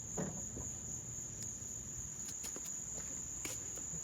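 Steady high-pitched insect trill, with a faint low hum beneath and a few light clicks.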